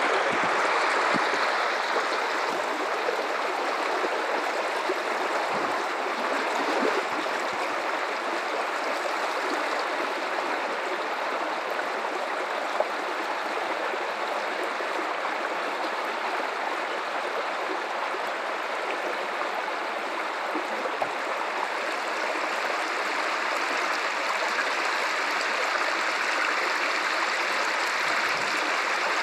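River water running steadily over rocks, a continuous rushing with light gurgling.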